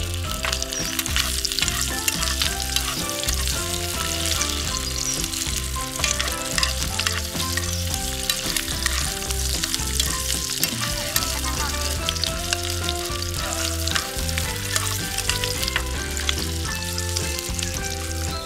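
Sausages sizzling and crackling in a hot oiled pan on a portable gas stove, with a spoon stirring and turning them; music plays underneath.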